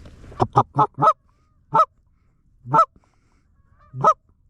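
Goose calling: a quick run of four short honks and clucks, then single loud honks spaced about a second apart.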